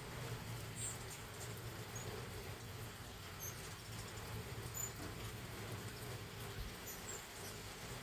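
Faint, short, high-pitched squeaks of hummingbirds feeding, scattered through, over a low steady hum.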